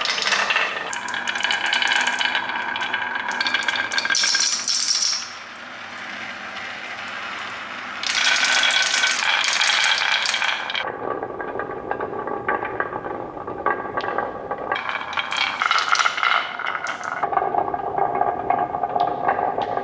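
Continuous rapid rattling and clicking of small hard objects, with a faint ringing tone; it drops quieter for a few seconds about five seconds in, then picks up again.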